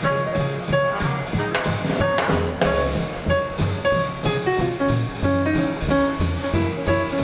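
Small swing band playing an instrumental passage live: walking double bass, drums keeping a steady beat, and a melody line over them, with a cymbal crash about two seconds in.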